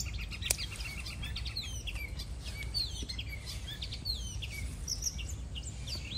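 Small birds chirping throughout, many short quick chirps that slide up and down, over a steady low rumble. About half a second in, one sharp snip of scissors cutting a string bean stem.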